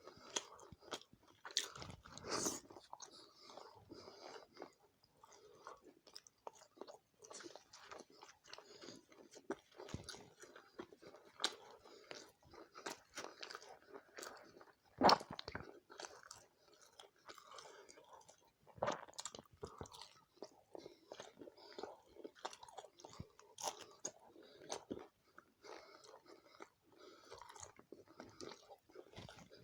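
A person chewing and eating mouthfuls of chicken curry, rice and roti close to the microphone, with wet mouth sounds and irregular sharp clicks; a few louder smacks stand out about 2 seconds in, halfway through and a few seconds later.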